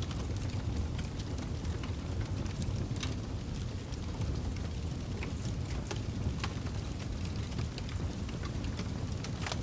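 Campfire burning, with a steady low rumble of the flames and frequent irregular crackles and pops of the wood.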